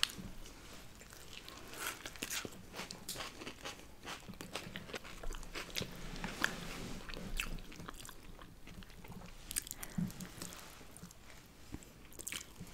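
Close-miked eating: people biting into and chewing breaded chicken nuggets and burgers, with many small irregular crunches.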